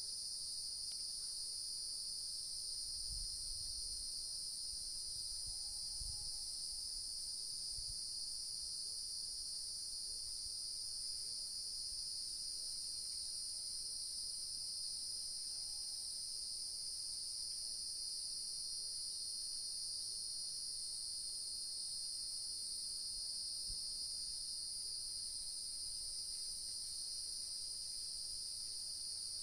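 Evening chorus of crickets and other insects: a steady, high-pitched chirring without a break. A few faint low thuds come in the first eight seconds.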